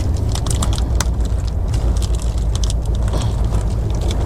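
Steady low rumble of a moving passenger train heard from inside the coach, with scattered sharp crackles and clicks from a tightly sealed takeaway food package being opened and handled.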